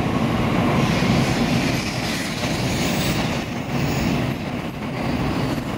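N700A-series Shinkansen train departing a station platform, its cars running past close by with a steady, dense rumble of wheels and running gear as it picks up speed.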